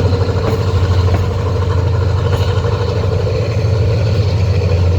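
Diesel-electric locomotive engine running with a steady low drone and a constant higher hum over it.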